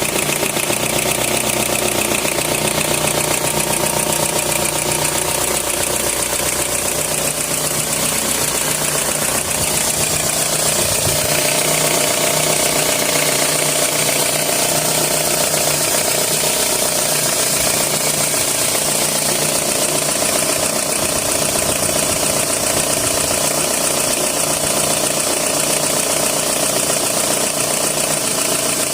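2003 Toyota RAV4 engine idling, with a steady high hiss and a rattle over it.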